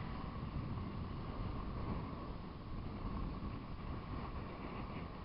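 Gusty wind buffeting the microphone, loudest in the low rumble, over the steady distant drone of a radio-controlled Funtana aerobatic model plane's motor.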